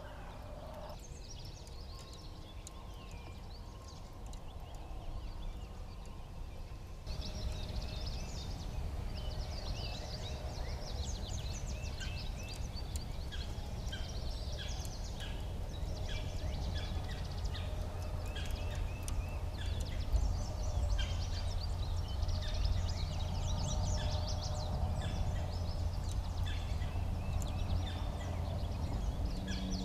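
Wild turkey gobbling amid a busy chorus of songbirds chirping and singing, over a steady low rumble. The birdsong grows louder and denser about seven seconds in.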